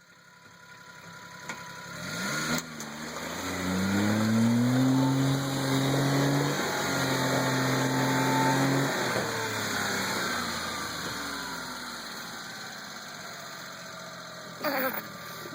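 Mini truck engine revving hard as the truck drives by. It grows louder over the first few seconds and its pitch climbs and holds high, with a brief break near the middle, then the pitch falls away and the sound fades as the truck moves off.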